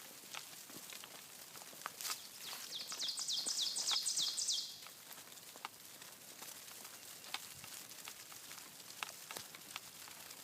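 Scattered light ticks of tiny insects on dry leaves, a faint patter that sounds like rain. Starting about two and a half seconds in, a bird sings a quick run of about ten high, falling notes, the loudest sound.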